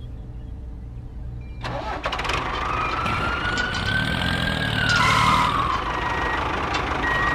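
A small vehicle motor starting up about a second and a half in and running, with a whine that climbs slowly and then drops away about five seconds in, over a low steady rumble.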